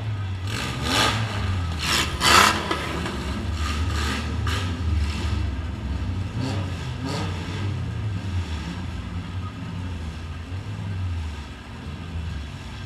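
Demolition derby car's engine running and revving, heard from inside the stripped cabin, with several sharp bangs in the first few seconds, the loudest about two and a half seconds in, and a few more around the middle.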